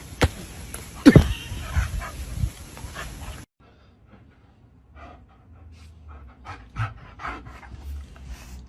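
A loud cry falling steeply in pitch about a second in, then a dog panting in short, irregular breaths.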